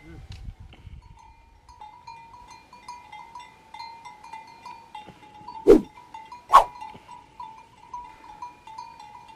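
Metal livestock bells (chocalhos) clanking irregularly as the animals move, with two short loud sounds, likely animal calls, less than a second apart about halfway through.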